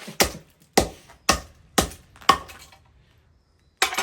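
Sharp knocks of a tool striking a laptop's CPU and heatsink assembly to knock the processor loose: five strikes about half a second apart, then one more near the end.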